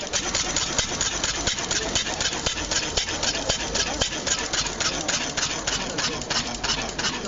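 Benz Patent Motorwagen's single-cylinder four-stroke engine running steadily at idle, an even rapid beat of about five strokes a second.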